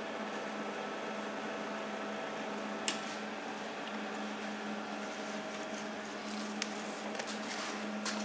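Welding machine humming steadily at idle, with a low tone and a couple of light clicks, one about three seconds in and one near the end.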